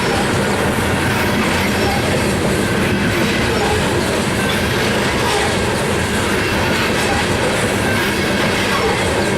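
Coal train cars rolling past, steel wheels clattering on the rails in a loud, steady din.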